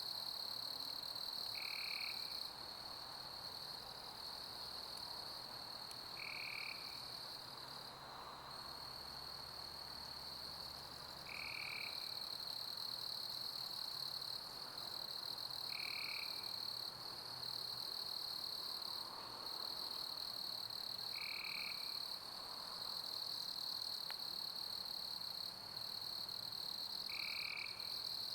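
Steady high chirping of a summer cricket chorus, with a short lower call repeating about every five seconds, over a soft hiss of pink noise.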